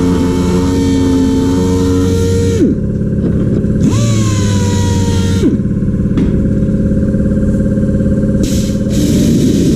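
A motor running with a steady hum. Its pitch drops sharply about three seconds in, climbs back a second later, and drops again about halfway through, as if it is switched off and on.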